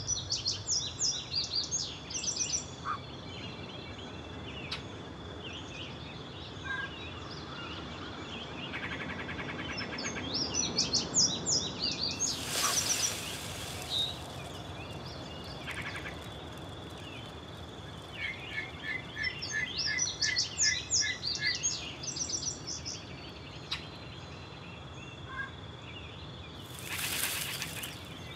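Countryside ambience: small birds singing in repeated phrases of quick, high chirps and trills over a low hiss and a faint steady high tone. Twice, about midway and near the end, comes a short rush of noise.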